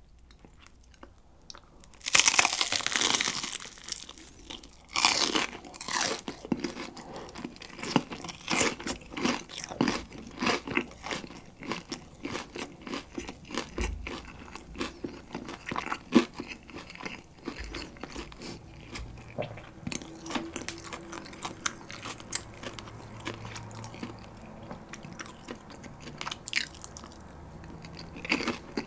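Very crispy fried chicken (Kyochon Rice Chicken) being bitten and chewed close to the microphone. Loud crunching starts about two seconds in, with another big bite a few seconds later, then dense crackly chewing.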